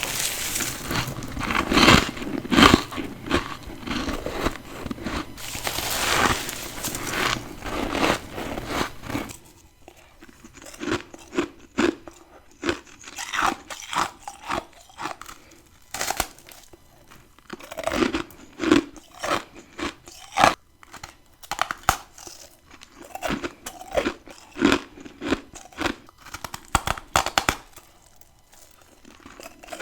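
A person biting and chewing ice, crunching. The first nine seconds or so hold dense, loud crunching; after that come quieter, separate crunchy bites.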